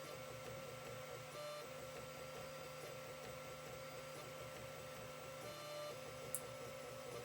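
Creality CR-10 3D printer printing: a faint steady whine from the stepper motors with a quick pulsing pattern, its pitch shifting up briefly twice as the head changes moves, and a single sharp click near the end.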